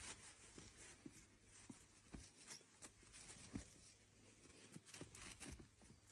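Near silence: faint room tone with a few scattered small clicks and taps.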